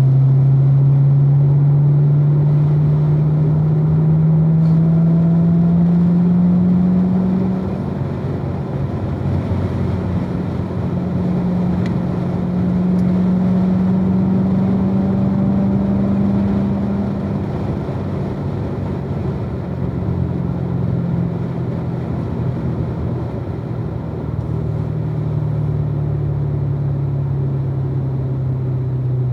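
Supercharged 6.2-litre V8 of a 2016 Corvette Z06 running hard at track pace: the engine note climbs steadily for several seconds, drops sharply, climbs again, falls away, and climbs once more near the end, over a constant rush of road and wind noise.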